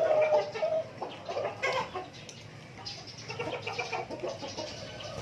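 Chickens clucking, several birds giving short calls over one another, loudest in the first second or so.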